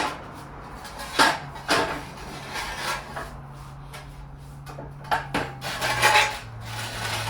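Heavy truck transfer case being set down and shifted onto a dolly: a series of clanks and knocks, about a second in, around three seconds in and a cluster near the end, over a steady low hum.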